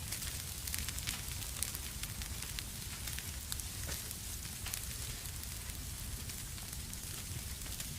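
Wood fire in a fireplace crackling, with a steady hiss and low rumble and many scattered sharp pops.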